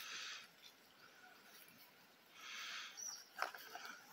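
Faint outdoor ambience with two short rushes of soft noise, then a single brief high bird chirp about three seconds in, followed by a few small clicks.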